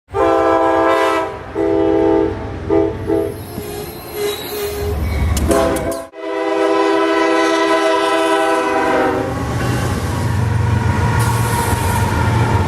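Lead CSX freight locomotive's multi-tone air horn blowing a series of blasts, one long, then several shorter ones, then a long blast of about three seconds starting about six seconds in. A low diesel rumble follows as the horn stops.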